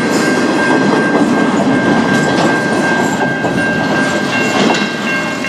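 Empty freight flatcars of a passing train rolling by at a level crossing, with the wheels clattering over the rail joints and a steady high ring over the top.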